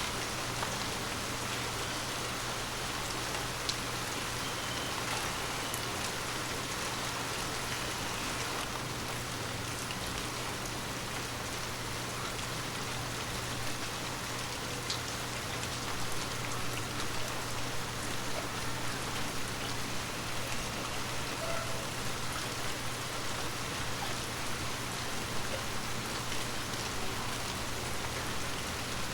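Steady rain falling on forest leaves, a dense patter of drops with scattered sharper drip ticks, growing a little busier about halfway through.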